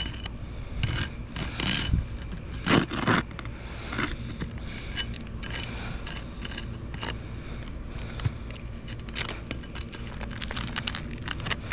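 Roof shingles being worked apart by hand to find a shingle's edge, with irregular scraping and crackling as the shingle's surface rubs and bends.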